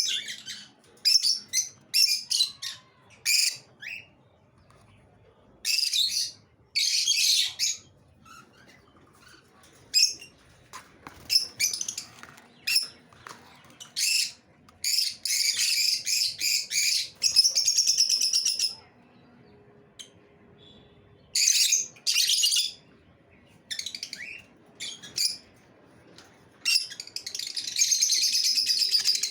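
Pet lovebirds chirping and chattering in rapid, shrill bursts, with short pauses between bouts and longer runs of chatter about halfway through and again near the end.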